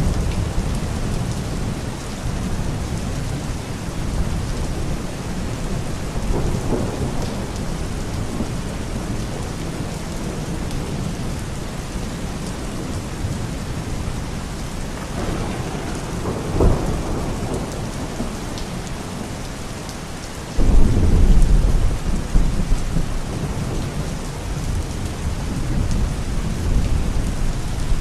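Steady rain with rumbles of thunder. A loud thunderclap breaks in suddenly about three-quarters of the way through and rolls on for a few seconds.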